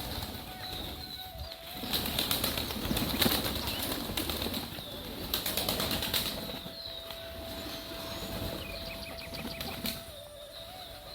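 Rural morning birdsong: small birds giving repeated short, high chirps over a rustling background. Louder bursts of rustling come about two and five seconds in, and a faint steady tone sounds behind them for parts of the time.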